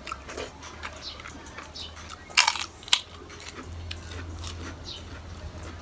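Close-up eating sounds: biting and crunching food, with small sharp mouth clicks throughout and two louder crunches a little before halfway.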